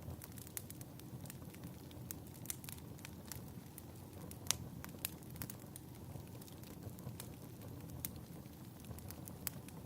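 Wood fire in a fireplace crackling: a steady low rumble of flame with scattered sharp pops, one louder pop about halfway through.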